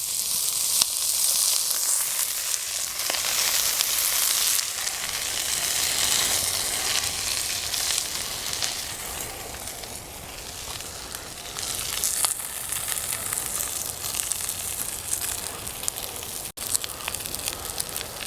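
Halved Brussels sprouts frying in olive oil in a hot cast iron skillet: steady sizzling with small scattered pops. The sizzle eases about ten seconds in and picks up again a couple of seconds later.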